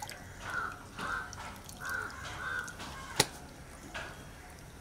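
A bird calling four times in quick succession, short calls each held at one pitch, followed about three seconds in by a single sharp click.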